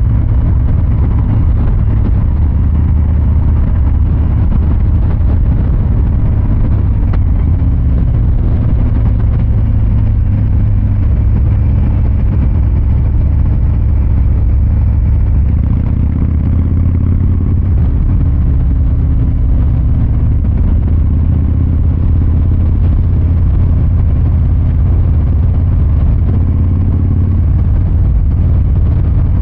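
Harley-Davidson Fat Boy 114's Milwaukee-Eight V-twin engine and exhaust running steadily under way, a deep, loud rumble. The engine note shifts briefly about halfway through.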